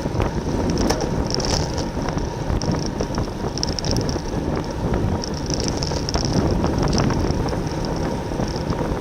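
Wind rushing over the microphone of a camera on a road bicycle racing in a pack, with the bike's tyres and drivetrain running underneath. A high whirring swells and fades several times, with faint ticks.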